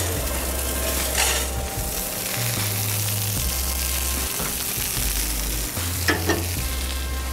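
Food sizzling steadily in a hot pan, with a few sharp knocks, one at the start, one about a second in and one near the end.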